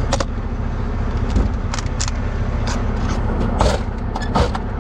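Heavy diesel tow truck idling steadily, with several sharp clicks and knocks from air-brake fittings and tools being handled.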